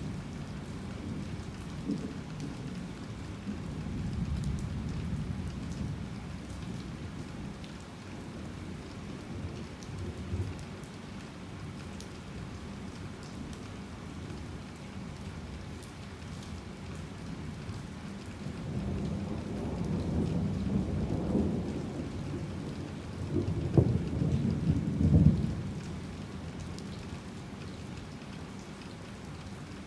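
Heavy rain falling steadily with thunder rumbling: a rumble dies away in the first few seconds, then another builds about two-thirds of the way through and peaks in a louder crack of thunder near the end before fading.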